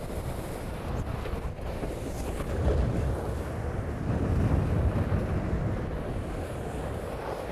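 Wind buffeting the microphone over the steady rush of water past the hulls of a sailing catamaran moving fast in strong wind.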